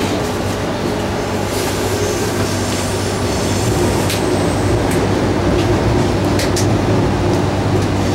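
Sydney Trains Tangara (T-set) electric suburban train running underground, heard from inside the carriage: a steady rumble of wheels on rail with a low hum, and a few sharp clicks.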